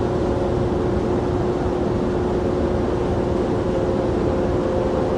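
Jet airliner engines running, a steady low rumble with a constant hum over it.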